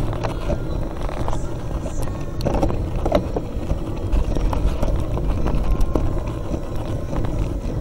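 Mountain bike rolling over a rough trail: a continuous low rumble with frequent rattles and knocks from the bike.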